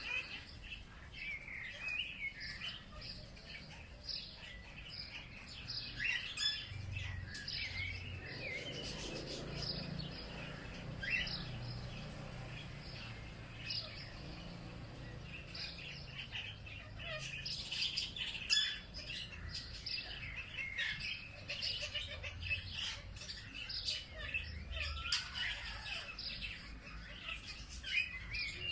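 Several birds singing and chirping together, with many short high chirps and trills overlapping throughout, and a faint low rumble underneath for several seconds near the middle.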